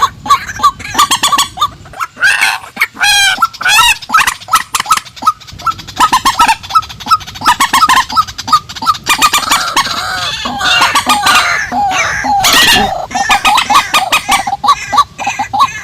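Calls of purple swamphens and white-breasted waterhens, a dense run of loud clucking and squawking notes. In the middle comes a run of short, evenly spaced notes at about three a second, and a loud harsh call sounds about three-quarters of the way through.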